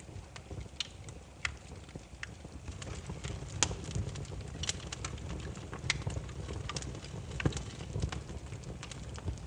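Burning firewood crackling: irregular sharp pops and snaps, a few each second, over a steady low rumble.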